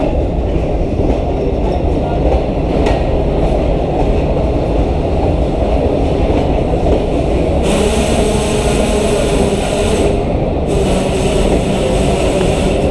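Steady rumble of a Pakistan Railways passenger train at a station platform. A high hiss joins in about eight seconds in, breaks off briefly, and comes back.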